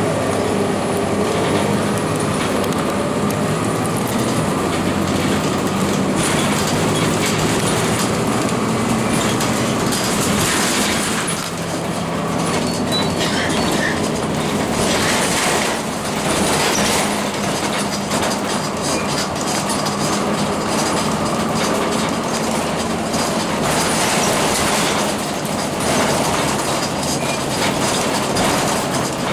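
A 2002 Blue Bird CS transit bus driving, its Cummins ISC six-cylinder diesel running steadily under a wash of road noise. Short rattles and knocks come through all the way.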